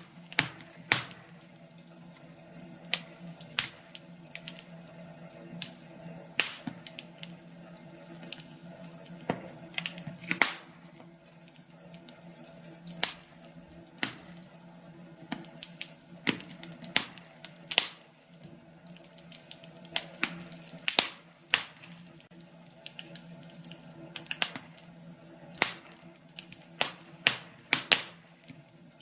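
Firewood burning in a fireplace, crackling with irregular sharp pops and snaps, some close together and some a second or more apart, over a low steady rumble.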